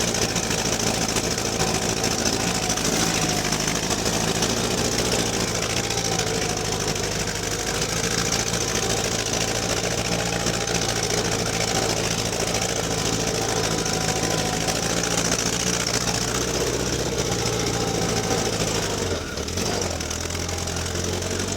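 GAZ-69A's four-cylinder side-valve engine running steadily. About three seconds before the end it dips briefly and then settles at a lower pitch.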